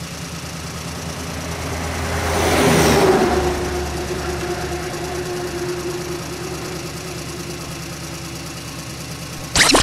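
Simulated truck engine running steadily with a low hum, swelling louder for a moment about three seconds in. Near the end a sudden loud sound effect of several quickly falling tones cuts in.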